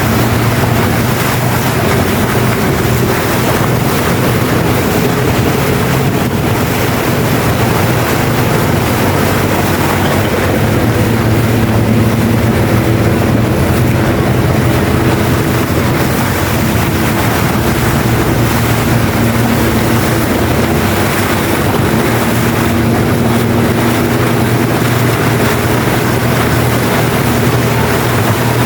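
Motorboat engine running steadily under way, with a steady rush of wind and water noise over it.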